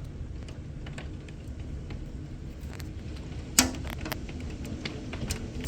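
Storm wind with a steady low rumble, and scattered sharp taps of storm debris or hail striking the house, the loudest a little over halfway through.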